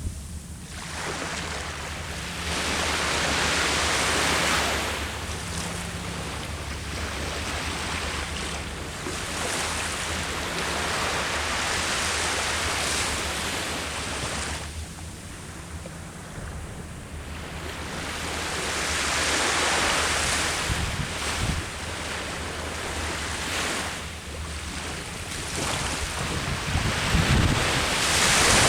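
Sea waves breaking and washing up the beach, rising and falling in slow surges every several seconds, with wind rumbling on the microphone.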